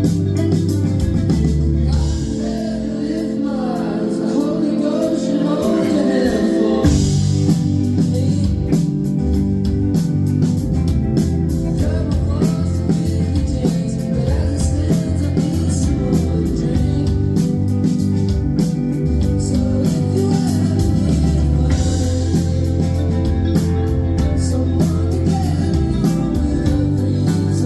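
Live indie pop band playing with guitars and singing. The bass drops out for a few seconds near the start, then the full band comes back in about seven seconds in.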